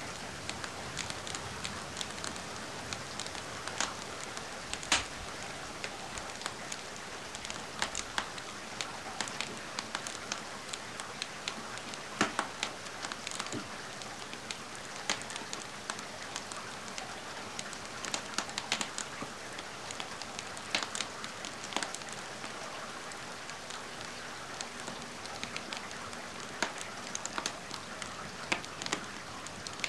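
Steady rain hiss mixed with a wood fire crackling, with sharp pops and snaps scattered irregularly through it.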